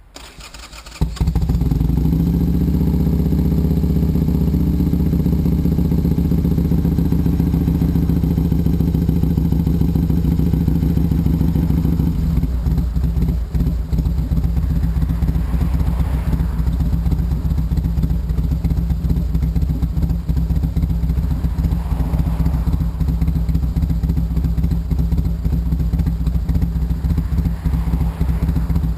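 1991 Harley-Davidson Sportster XL883's air-cooled V-twin on a cold start, breathing through a custom exhaust made from a Bassani Road Rage pipe: it turns over on the starter briefly, catches about a second in, then idles steadily.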